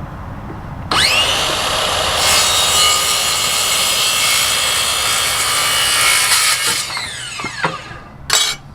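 Table saw starting up with a rising whine about a second in, cutting through wood, then winding down near the end. A short clatter comes just before the end.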